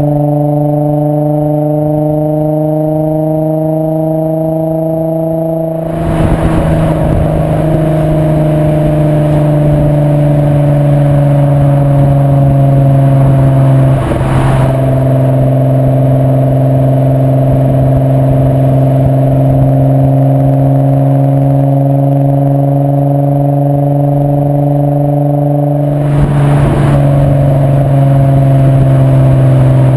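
VW Bora/Jetta mk4's 2.8-litre VR6 24V six-cylinder engine running through a Milltek non-resonated 70 mm exhaust. It holds a steady, loud drone whose pitch drifts slowly up and down, with short noisy breaks about 6, 14 and 26 seconds in.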